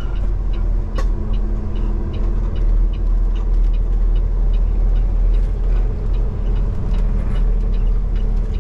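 Semi truck's diesel engine idling steadily, a low rumble with a steady hum, and a few light clicks.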